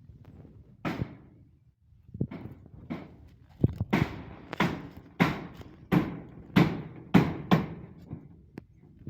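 A series of sharp knocks or bangs: a few scattered ones, then a steady run of about eight louder strikes roughly every half second, each with a short ringing tail.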